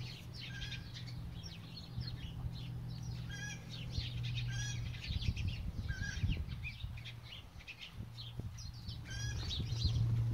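Birds chirping, many short calls one after another, over a steady low hum.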